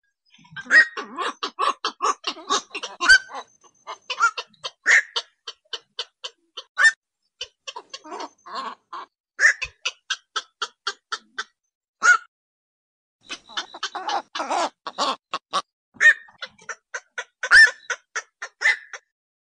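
Black-crowned night heron calls used as a lure: rapid runs of short clipped croaking notes, several a second, in bursts broken by brief pauses.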